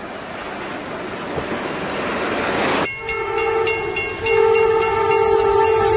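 Rushing noise of a snowplough locomotive ploughing through deep snow, growing louder, then cut off sharply about three seconds in by a train's air horn sounding a chord in two long blasts, the second the loudest, with a grade-crossing bell ringing rapidly under the first.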